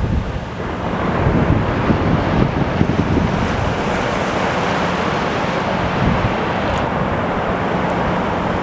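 Ocean surf washing onto a beach, swelling about a second in and then holding as a steady rush, with wind buffeting the microphone.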